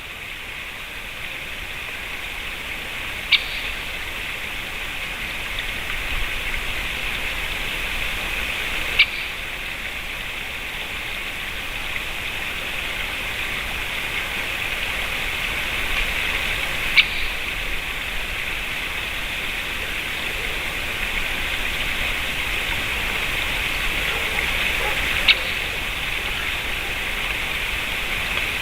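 Great spotted woodpecker giving single short, sharp 'kik' calls, four times, several seconds apart, over a steady hiss.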